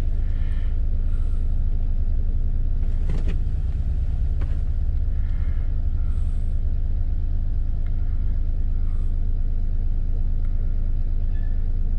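Small three-cylinder engine of a 2016 Daihatsu Cast idling steadily, a low even rumble heard from inside the cabin, with a couple of faint clicks.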